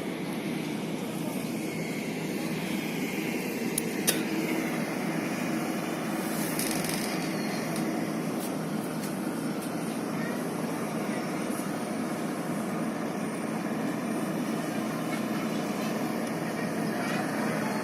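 Steady engine or machinery noise with a faint hum, and one sharp click about four seconds in.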